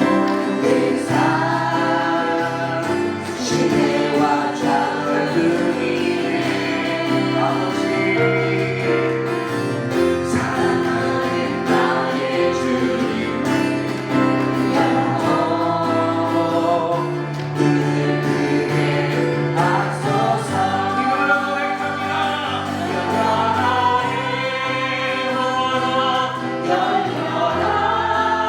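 Christian worship music: voices singing together in a gospel-style praise song over instrumental accompaniment with sustained bass notes.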